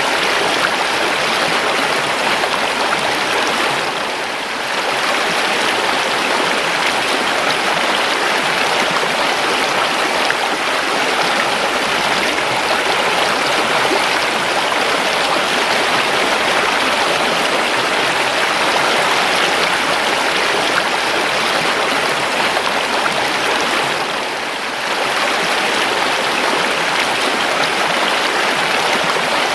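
Flowing river: a steady, even rushing of water that dips briefly twice.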